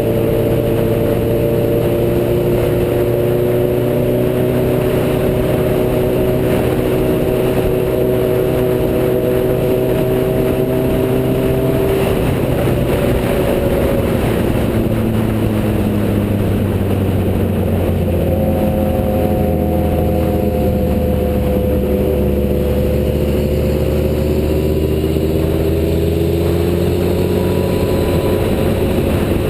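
Sport motorcycle engine running under way. Its pitch climbs slowly for about twelve seconds, drops suddenly, then climbs slowly again.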